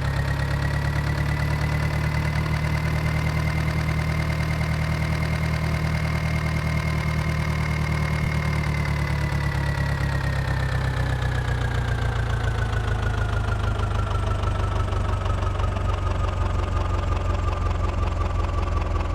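Mahindra tractor's diesel engine running steadily, then slowing gradually from about eight seconds in, its pitch falling as the revs come down.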